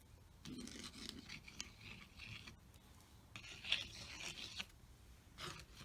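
A brush scrubbing and scratching over a canvas surface in several short bouts of faint rasping strokes.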